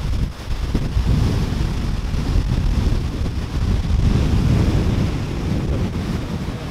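Floodwater from an overflowing dam pouring down the spillway, a steady loud rush, with wind buffeting the microphone.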